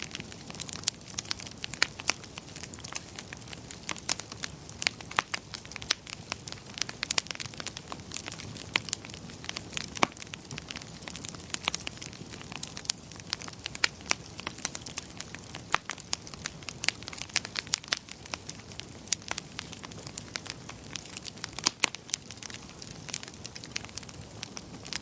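Wood fire crackling steadily, with frequent irregular sharp pops and snaps over a soft low rumble of the flames.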